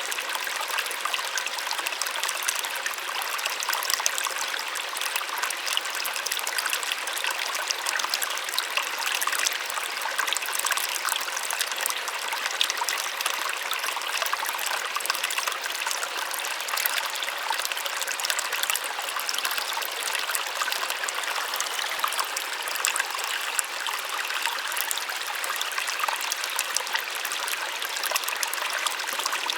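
Small waterfall splashing and trickling steadily, an even bright rush of falling water with fine spatter and little low rumble.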